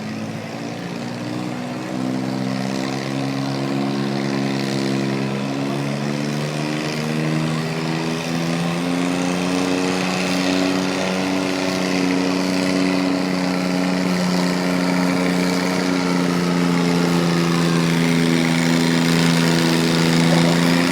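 Allis-Chalmers 220 garden tractor engine running hard under load while pulling the sled. The pitch dips in the first two seconds, then climbs and holds steady as the sound slowly grows louder.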